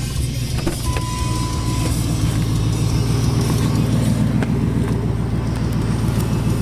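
Supercharged V8 of a 2001 Ford F-150 SVT Lightning idling steadily, with a brief steady beep lasting about a second, a second in.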